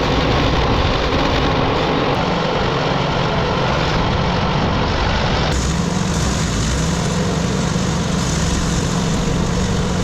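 A small wood chipper's petrol engine running steadily, its sound shifting about five and a half seconds in as a steady low hum comes up.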